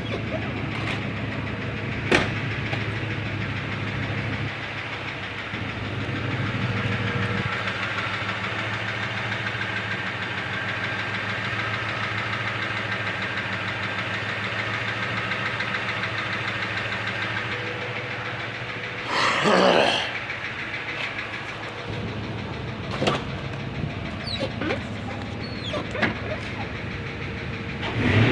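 Ford Crown Victoria's 4.6-litre V8 idling steadily. A sharp click comes about two seconds in, a brief loud rush of noise about two-thirds of the way through, and a few light knocks near the end.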